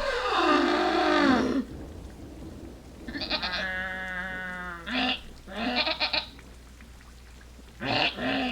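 Repeated bleating calls from livestock: a long wavering call at the start, another long quavering call a few seconds in, then several shorter bleats.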